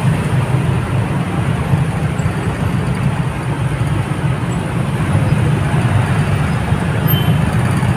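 Steady road traffic noise with a continuous low engine rumble.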